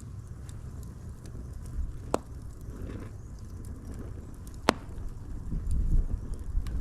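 Wood fire burning with a low rumble and scattered small crackles, and two sharp pops, about two seconds in and near five seconds in, the second the louder.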